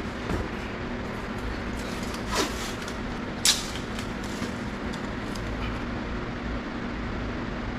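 Steady background hum with a few short crackles of blue painter's tape being pulled from the roll, torn and pressed on; the sharpest comes about three and a half seconds in.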